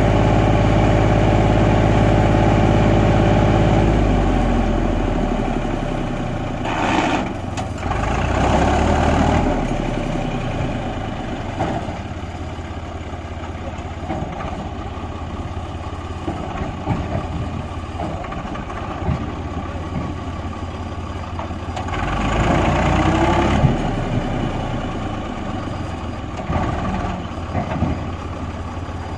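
Tractor diesel engine labouring as it pulls a loaded soil trolley: a steady, loud engine note for the first few seconds, then a rougher, uneven running with louder swells about seven seconds in and again about twenty-two seconds in.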